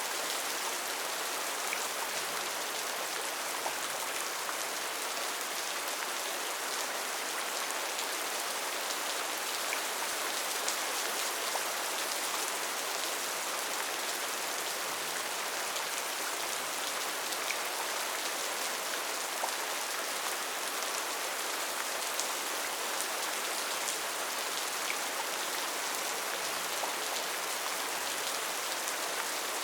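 Steady rain falling on rainforest foliage: an even hiss with scattered small drop ticks.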